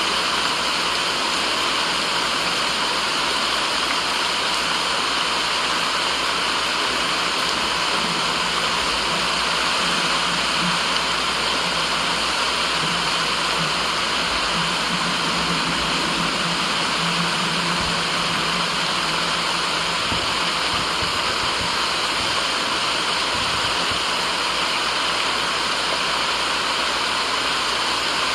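Steady, unbroken rushing white noise with the sound of running water, even in level throughout. A faint low hum sits under it for a while in the middle.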